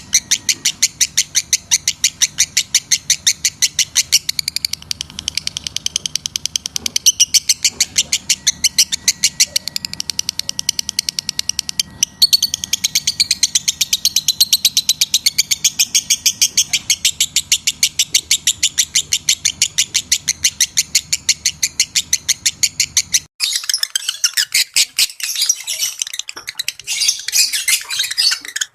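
Lovebirds chattering: a fast, steady run of short high-pitched chirps, about five a second, with a sudden break about twelve seconds in and again near the end, where the chirping turns denser and more ragged. It is a lure call played to bring lovebirds into breeding condition.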